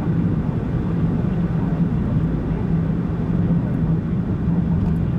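Steady car driving noise: engine hum and tyre and road rumble heard from the moving car, with a constant low hum.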